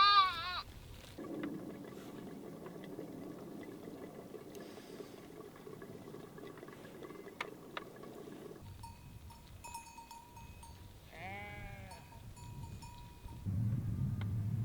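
An animal bleating: one loud, wavering bleat at the very start and a shorter one about eleven seconds in.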